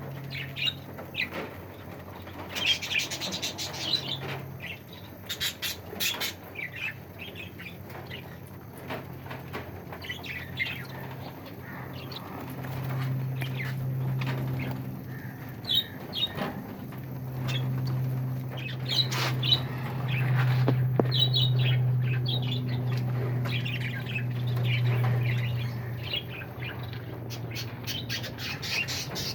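A mixed flock of small pet birds chirping and squawking, with many short, overlapping high calls and a few sharp clicks. Under them runs a low, steady hum that comes and goes and is loudest in the second half.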